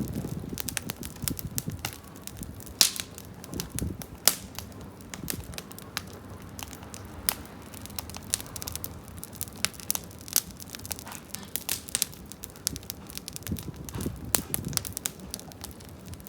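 Campfire crackling, with many irregular sharp pops and snaps over a low steady burn; the firewood is damp from rain.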